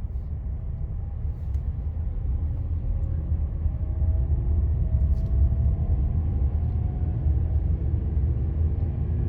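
Car driving, heard from inside the cabin: a steady low road and engine rumble. A faint engine hum rises a little in pitch a few seconds in.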